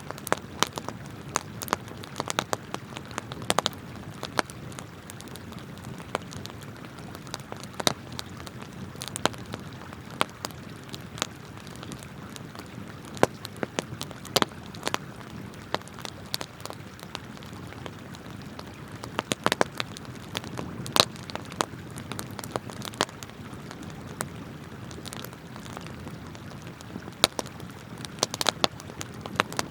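Wood campfire crackling, with irregular sharp pops that come in small clusters now and then, over the steady flow of river water.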